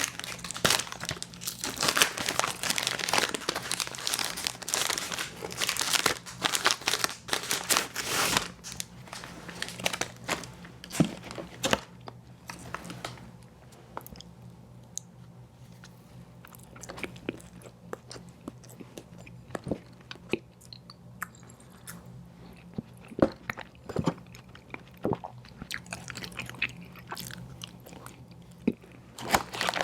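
Close-miked eating of an ice cream sandwich: biting, crunching and chewing. It is dense and busy for about the first twelve seconds, then turns sparser, with scattered sharp crunches.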